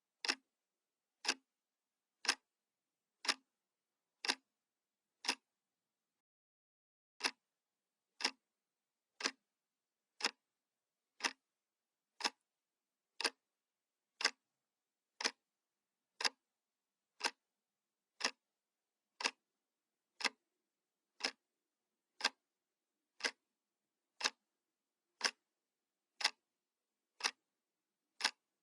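Analog clock ticking, one sharp tick a second, with one tick missing about six seconds in.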